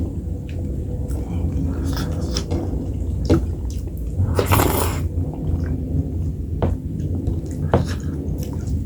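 Close-miked eating sounds of maize dhido with nettle curry: wet chewing, squishing and lip smacks in scattered short clicks, with one longer wet noise about four and a half seconds in.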